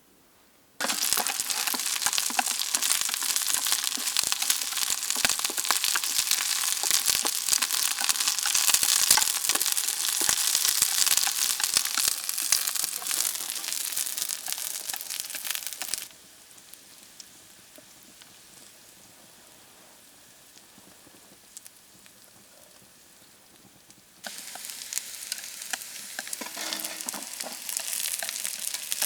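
Food frying in a hot pan over a campfire: a dense sizzle full of fine crackles. It starts abruptly about a second in and cuts off about halfway through, then comes back, a little quieter, near the end.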